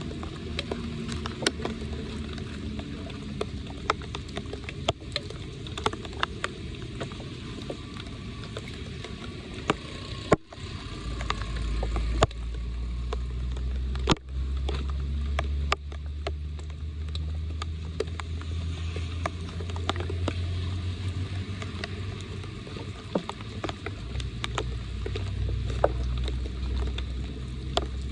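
Floodwater running on a street and draining into a storm drain, with a patter of drops and scattered small clicks and knocks. The sound cuts abruptly twice, and a steady low rumble comes in after about ten seconds.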